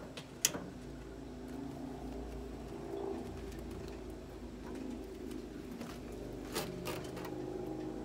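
A bird calling in the background, with a sharp click about half a second in and two more clicks near the end as the charcoal chimney starters are lit.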